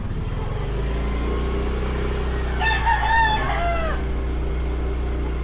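A rooster crows once, about two and a half seconds in, a call of just over a second that drops in pitch at its end. Under it a motorcycle engine runs steadily throughout.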